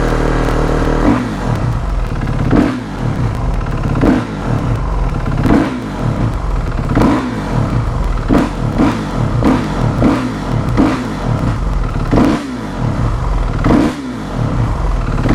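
Kawasaki KX450 dirt bike's single-cylinder four-stroke engine running just off the choke, revving up and easing back over and over, about once every second and a half.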